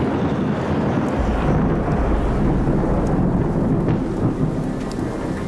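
Storm ambience: steady heavy rain, with a deep rumble of thunder that sets in about a second in and rolls on.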